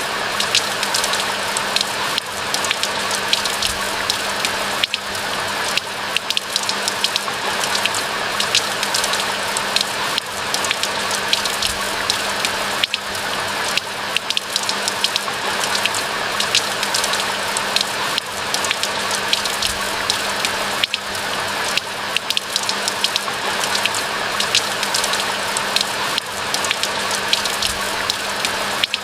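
Steady rain falling, with a dense patter of individual drops ticking over an even wash of noise. A faint steady low hum runs underneath.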